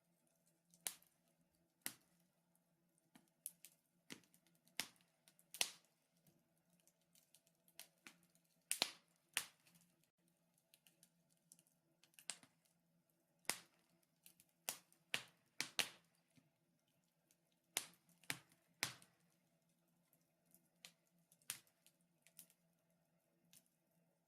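Wood fire crackling in a fireplace: irregular sharp pops and snaps, roughly one a second with uneven gaps, over a faint steady hum.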